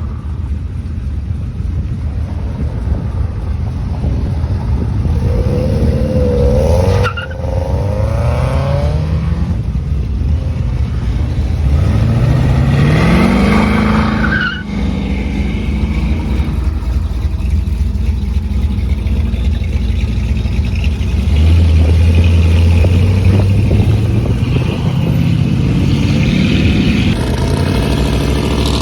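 Classic American cars driving off one after another, engines running loud and rising in pitch several times as each one accelerates away.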